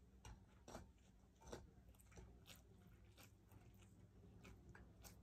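Faint, close-up chewing and biting of chicken eaten by hand, with soft, irregular mouth clicks and smacks.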